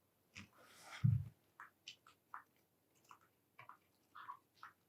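A parrot chewing and biting at wooden bird-toy parts: faint scattered clicks and crunches, with one dull thump about a second in.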